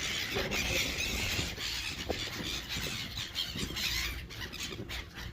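Seagulls calling and squealing around someone holding out bread, the calls continuing without a break.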